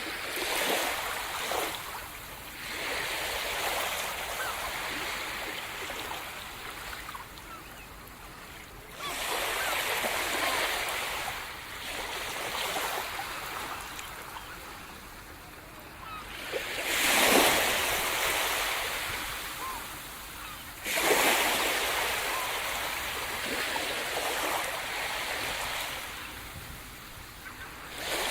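Sea surf: waves breaking and washing up the shore one after another, each wash swelling and dying away over a few seconds, the loudest breakers about 17 and 21 seconds in.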